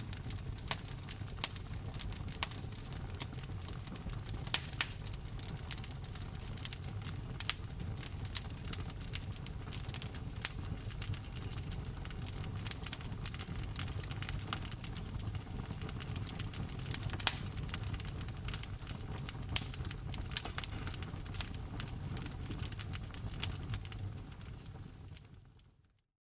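Wood fire crackling, with frequent sharp pops and snaps over a steady low rumble of the burning logs. It fades out to silence just before the end.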